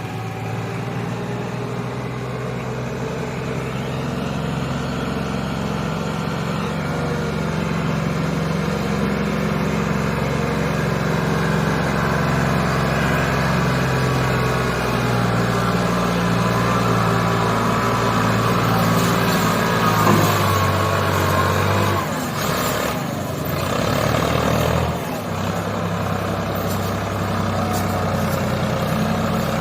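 Ford 3610 tractor's three-cylinder diesel engine running steadily under the load of a full sugarcane trolley, slowly growing louder. About three-quarters of the way through, its note dips and shifts for a few seconds, then steadies again.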